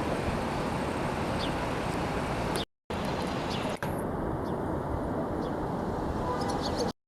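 Steady engine roar with no clear pitch, broken by a sudden cut to silence about two and a half seconds in and again near the end.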